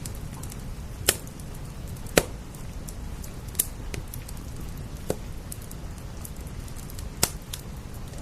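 Wood fire crackling, with five sharp pops spread through and fainter ticks between, over a steady rain hiss.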